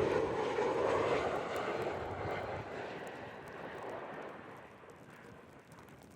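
Airliner engines, a loud rushing roar that fades steadily over several seconds as the plane moves away.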